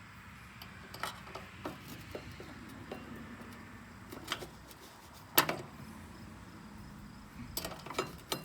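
Scattered metallic clinks and taps of snowblower drive parts and hand tools being handled during reassembly, with a sharper knock about five seconds in.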